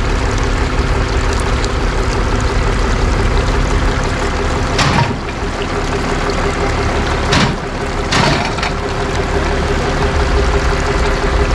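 Truck engine running steadily beside the rushing water of a creek, with three brief louder noises about five, seven and a half and eight seconds in.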